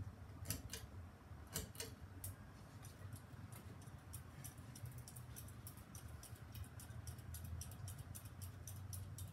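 Halsey GEV ceiling fan running in reverse: a low, steady motor hum with sharp ticking clicks, scattered at first and coming several times a second from about four seconds in.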